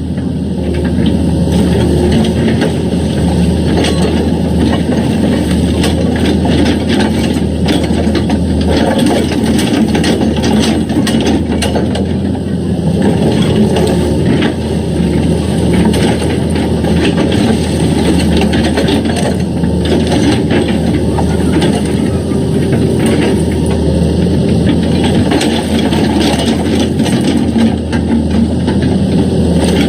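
Excavator engine running steadily under load, with frequent irregular clanks and scrapes as the machine works against rock.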